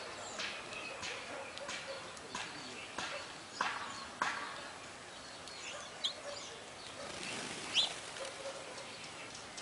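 Wild songbirds chirping and calling in short, separate notes, with two sharp downward-sweeping calls about three and a half and four seconds in and brief high notes later on.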